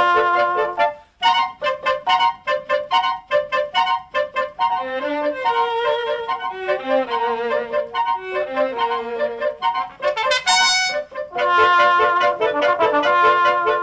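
Small jazz band playing a silent-film comedy score in 1920s style, with brass and woodwinds. Short clipped notes give way to a slower melodic line in the middle, and a bright high flourish comes about ten and a half seconds in before the band returns to fuller playing.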